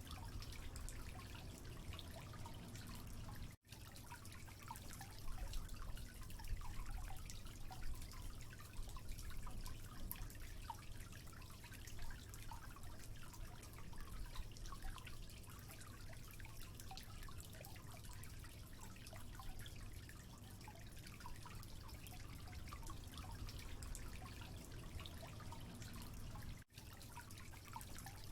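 Water dripping and trickling: many small drops over a steady low rush, cutting out for an instant twice.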